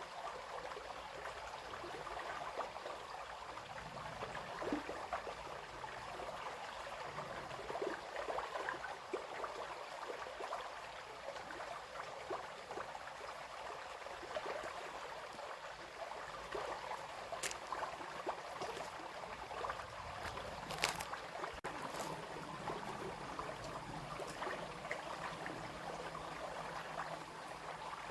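Small brook babbling and splashing steadily, with a couple of sharp clicks around two-thirds of the way through.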